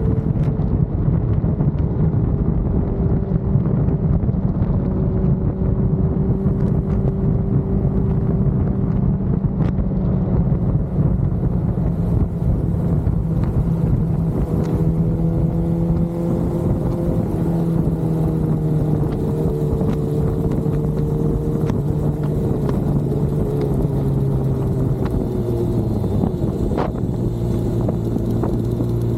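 Motorcycle engine running steadily at cruising speed with road and wind noise. The engine note eases lower after about two-thirds of the way, then drops a step near the end as the bike slows.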